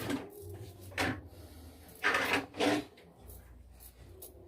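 Four short hollow knocks and clatters, as of hard objects being handled and set down, in a small room.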